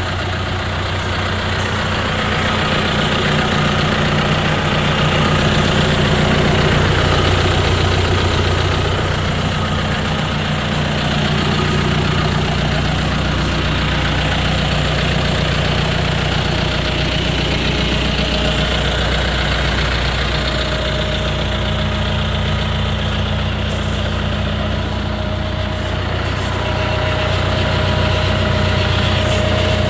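John Deere 5100M tractor's four-cylinder diesel engine idling steadily.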